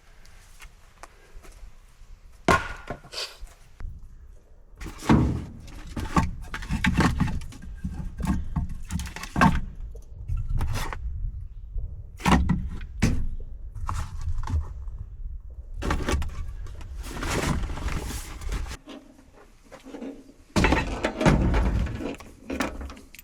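Irregular knocks and clunks, some sharp and some dull, with noisy stretches between them.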